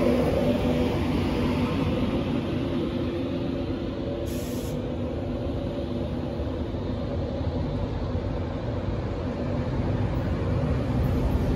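LNER InterCity 225 coaches rolling slowly past the platform: a steady low rumble of wheels and bogies, with a faint hum that fades in the first few seconds.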